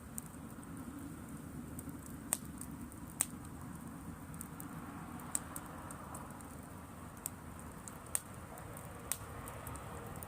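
Driftwood campfire burning: a low, steady rush of flames with sharp crackles and pops every second or two, the strongest about two and three seconds in and again near eight seconds.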